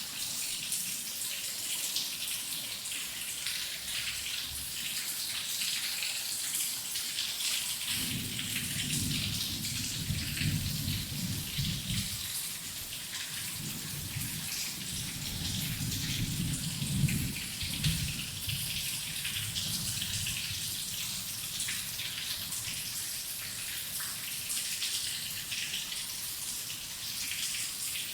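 Steady heavy rain, a dense hiss full of pattering drops. About eight seconds in, a low rumble of thunder rolls in and fades away again some ten seconds later.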